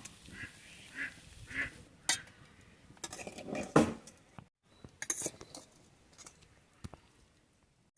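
A few short animal calls, with a couple of sharp clatters about two and four seconds in.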